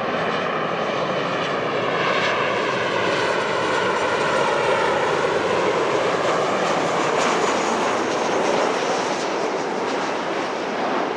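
Jet airliner passing low near the runway: a loud rushing jet noise with engine whine tones that glide down in pitch over the first five seconds.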